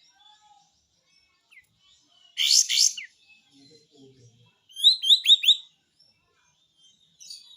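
Kapas tembak bulbul giving its 'besetan' call: a loud rattling burst about two and a half seconds in, then a run of four quick falling notes about five seconds in, and another burst starting near the end.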